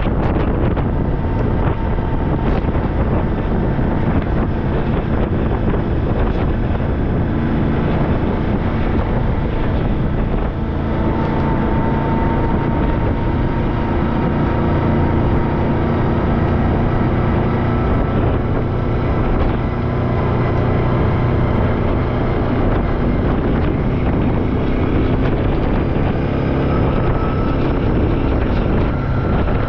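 Off-road vehicle engine running steadily under way, its pitch rising and falling a little, with wind buffeting the microphone.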